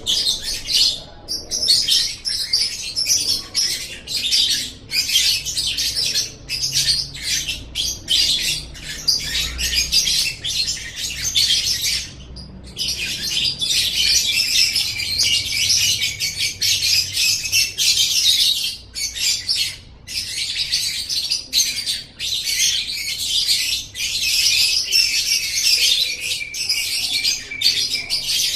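Lovebird singing a long, rapid, high-pitched chattering twitter, almost unbroken, with short pauses, one clear break about twelve seconds in.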